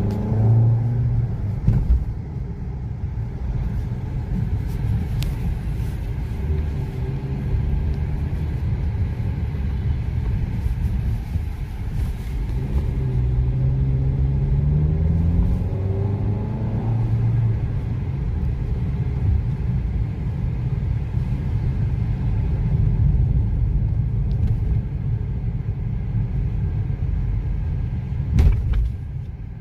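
Maruti Ignis's 1.2-litre four-cylinder petrol engine running with road rumble, heard from inside the cabin while driving; about halfway through, the engine note rises as the car accelerates. There is a sharp click near the end.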